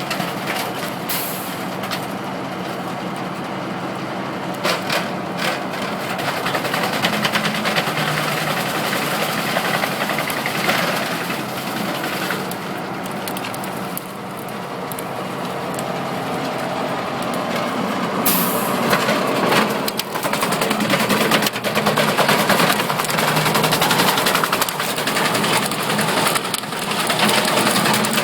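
Truck-mounted 12-inch wood chipper running with a loud, steady mechanical noise and a few short cracks, growing louder from about halfway through.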